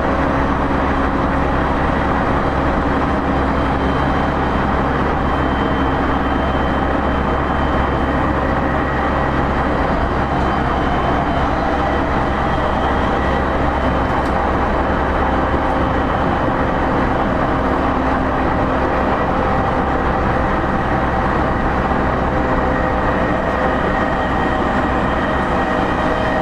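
Running noise of an E231-series commuter electric train, heard from inside a motor car: a steady drone of traction motors and wheels on rail, with several held whining tones, at an even speed.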